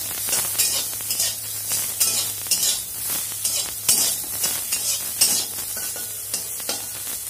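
Soaked soya chunks sizzling in mustard oil in a metal kadai, stirred with a metal spatula that scrapes across the pan at an irregular pace, about once or twice a second.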